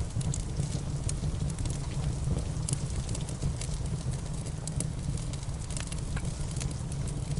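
Wood fire crackling in a fireplace: frequent small sharp pops and snaps, irregularly spaced, over a steady low rumble.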